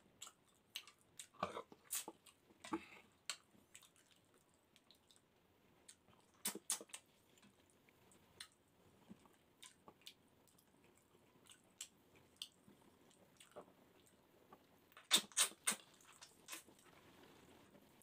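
Close-up mouth sounds of someone eating fish head and rice with his fingers: soft chewing with scattered small lip smacks and clicks, and a short run of louder smacks near the end.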